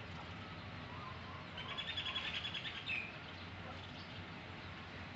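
A bird's rapid trill of high, evenly repeated notes for about a second and a half, ending in a short chirp.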